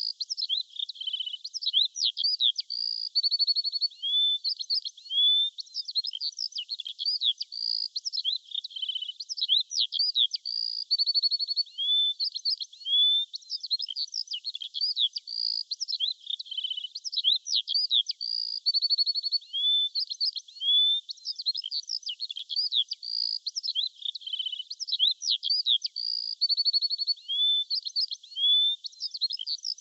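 Birdsong: a dense run of quick high chirps, whistled slurred notes and short rapid trills, with no low sounds at all. The same sequence of calls repeats about every eight seconds, as a looped recording.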